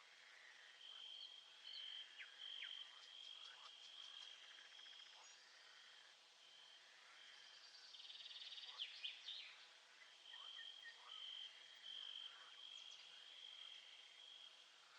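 Faint nature-sound ambience: a high pulsing trill in two long bouts of about four seconds each, with many short chirping calls scattered through it.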